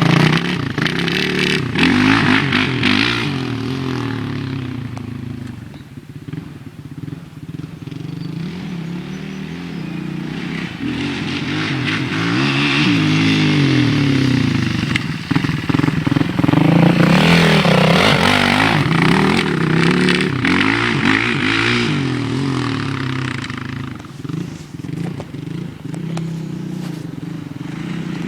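Motorcycle engine running under way, its pitch rising and falling again and again with throttle and gear changes. It eases off twice, about six seconds in and near the end, and is loudest in the second half.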